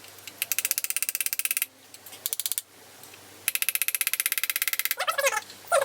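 Fast, light hammer taps on an impact screwdriver driving a Woodruff key into the crankshaft keyway of a 164FML motorcycle engine. The taps come in two quick runs of about a dozen taps a second.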